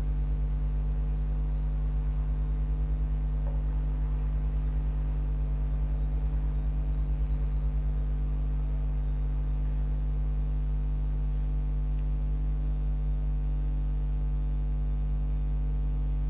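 Steady electrical mains hum: a constant low hum with a buzzy row of higher overtones, unchanging throughout.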